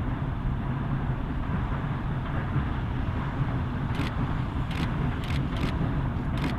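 A train running past with a steady low rumble. Several sharp, irregular clicks join in from about four seconds in.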